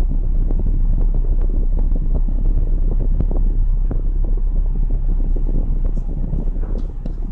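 Steady low rumble of an old car running, with some wind noise on the microphone.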